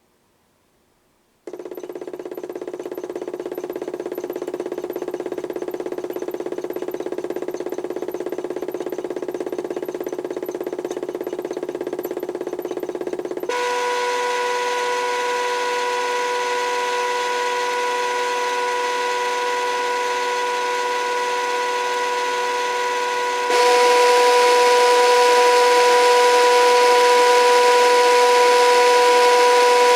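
HUSTOO 775 DC motor of a modified toy washing machine starting abruptly about a second and a half in, then running steadily with a whine of several steady tones. It steps up in speed twice, about halfway and again near the end, louder each time, as the drum is driven faster under PWM control.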